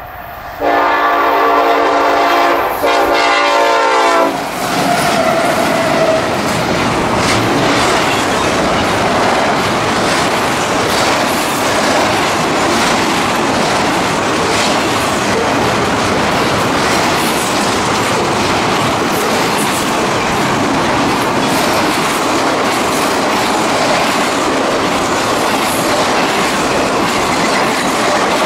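Norfolk Southern freight locomotive's air horn sounding two blasts, a longer one and then a shorter one, ending about four seconds in. Then comes the steady rumble and rush of a long, fast intermodal train of stacked containers and trailers going by, with faint regular clicks of wheels over rail joints.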